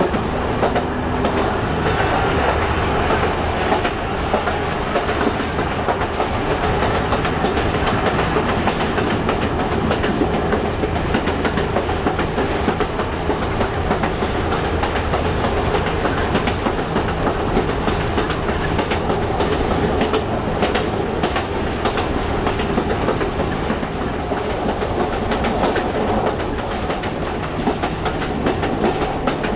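Diesel railcar of the Chemins de Fer de Provence running along the metre-gauge track, heard from on board: a steady engine drone under the rumble and clickety-clack of wheels over rail joints.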